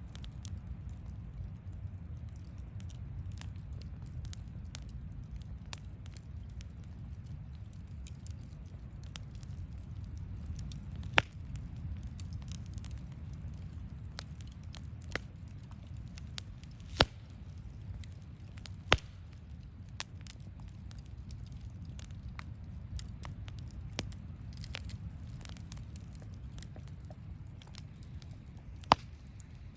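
Wood campfire crackling, with scattered small clicks and a few sharp, loud pops over a steady low rumble.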